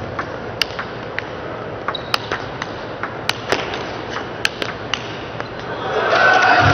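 Table tennis rally: the celluloid-plastic ball clicking sharply off rackets and table at irregular intervals. Near the end a crowd breaks into cheering and clapping as the point is won.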